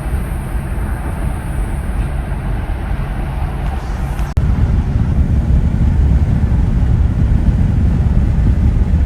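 Steady road and engine noise of a Volkswagen Amarok pickup on the move, heard from inside the cab. About four seconds in it turns abruptly louder and deeper.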